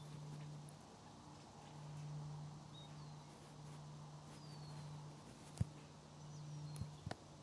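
Faint high bird chirps and thin falling whistles over a steady low hum. A sharp click comes about five and a half seconds in, and a few smaller clicks come near the end.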